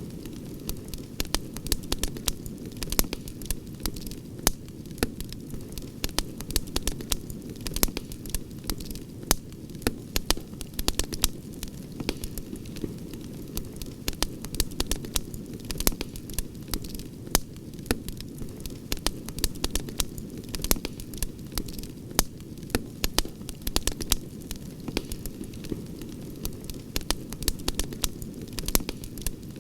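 Wood campfire burning, with frequent sharp crackles and pops, several a second, over a steady low rush of noise.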